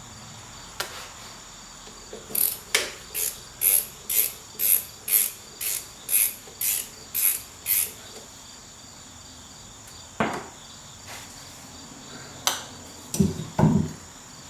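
Socket ratchet turning off small 1/4 inch nuts: about a dozen quick rasping strokes, two a second, followed by a few metallic clicks and clanks of the tool near the end.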